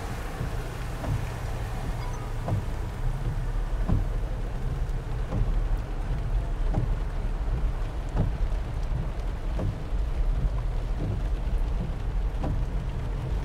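Rain on a moving car: a steady low hum from the car, with scattered raindrops tapping on the body and windscreen.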